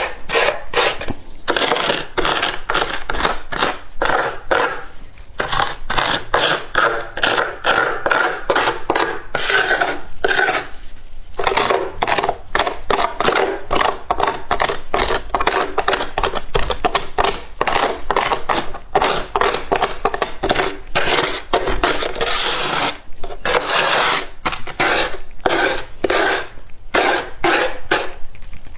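Flaky freezer frost crunching and scraping in quick, rapidly repeated strokes, with a few short pauses.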